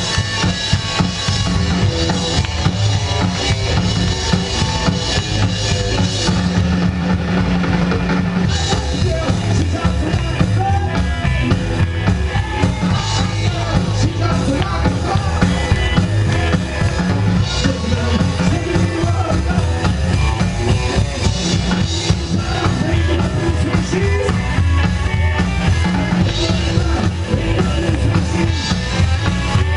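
Rockabilly band playing live, the drum kit and bass drum prominent under a steady beat.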